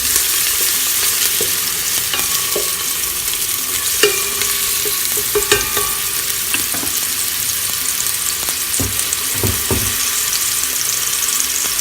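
Onions sizzling in hot olive oil in a pan, steady frying hiss, with a spoon stirring them and knocking against the pan now and then.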